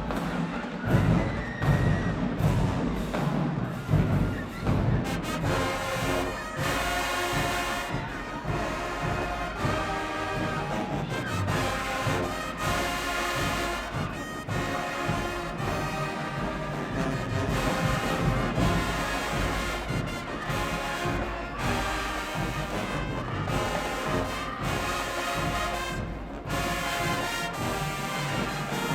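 Marching band playing: heavy drum hits for the first few seconds, then the brass section comes in over the drumline with a full, steady ensemble passage.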